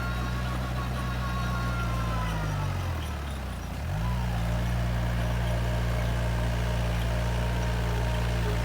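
Komatsu bulldozer's diesel engine running steadily; about two and a half seconds in its pitch sags and drops for about a second, then climbs quickly back to its steady speed.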